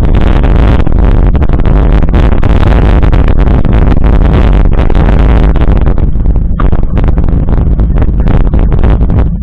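Wind buffeting the microphone of a camera riding along on a mountain bike, a loud steady rumble broken by rapid rattles and knocks; it thins out somewhat about six seconds in.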